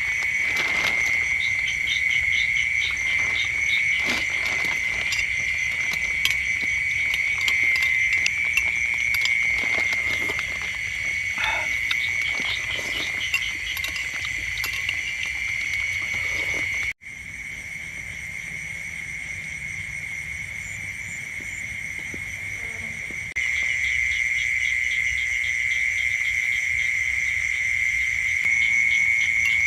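A steady, high-pitched night chorus of calling frogs and insects, with rapid pulsing notes above the main trill and a few scattered taps in the first half. The sound cuts out abruptly a little past halfway and returns quieter, then comes back louder several seconds later.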